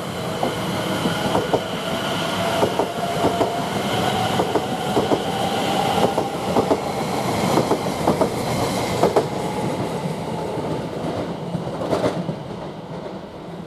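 Greater Anglia Class 720 electric multiple unit pulling away: traction motors whining with a slowly rising pitch over wheels clicking on the track, fading near the end as the train leaves.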